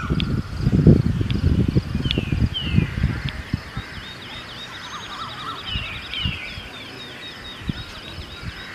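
Birds chirping, with repeated short downward-sliding calls and a quick trill about halfway through. Wind buffets the microphone with low rumbles for the first three seconds or so, then eases.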